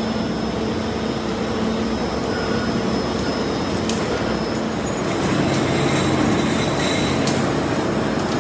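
Steady din of tyre-factory machinery running, with a held hum early on, a sharp click about four seconds in and the noise growing slightly louder after about five seconds.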